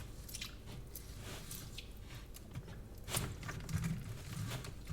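A utensil scraping and chipping at a rock-hard block of frozen chocolate: scattered scrapes and crunching clicks, busier in the second half.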